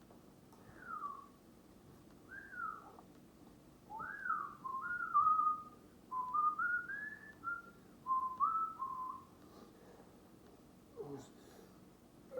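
A person whistling a short tune: a few falling slides, then a run of stepped notes up and down, ending about three-quarters of the way through.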